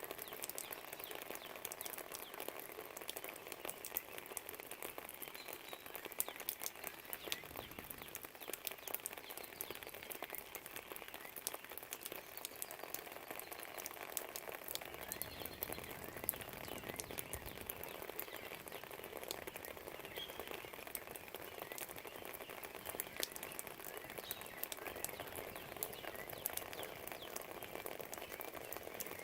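Steady rain pattering and dripping outside a window, dense with small drop ticks, with a few faint bird chirps scattered through it. A soft low rumble swells twice, about a quarter and a half of the way in.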